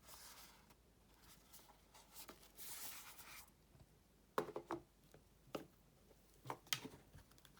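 Faint handling of coin packaging: a soft sliding rustle near the middle, then a few light clicks and taps in the second half.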